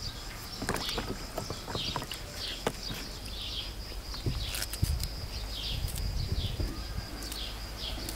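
A small bird calling over and over in short falling chirps, about two a second, with a steady high thin tone behind it. Mixed in are a few sharp clicks and taps as a small knife cuts green peppers.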